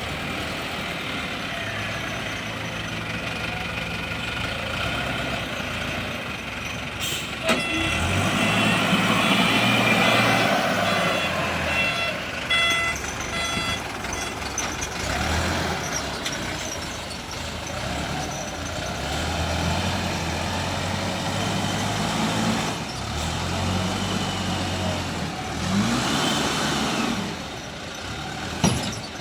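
Diesel engine of a ZL932 wheel loader at work, revving up and dropping back several times as it loads. Short reversing beeps sound around twelve seconds in, and a sharp knock comes about seven seconds in and again near the end.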